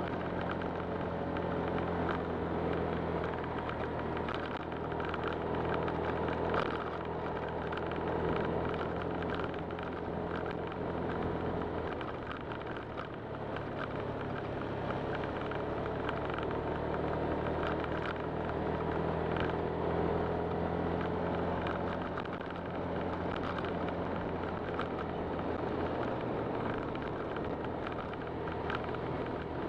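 Honda Click 125 scooter's single-cylinder engine running steadily while riding, its pitch rising and falling gently with speed, over wind and road noise.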